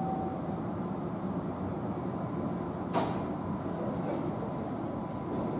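Keihan 9000-series electric train standing at the platform as its doors close. There is a steady low running noise, and a single sharp clunk about three seconds in.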